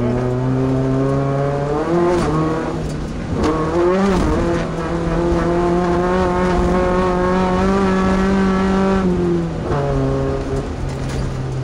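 Class 2 off-road race truck's engine running hard and steady, its note stepping up and down a few times as the revs change.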